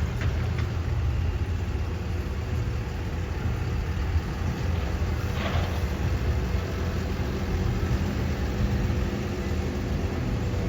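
Heavy diesel engine running steadily at a low, even speed, with a brief rush of noise about halfway through.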